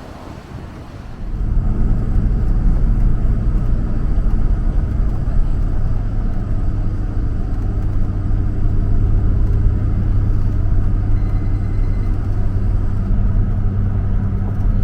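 Vehicle engine running under way: a loud, steady low rumble with a low hum that comes in abruptly about a second in and holds.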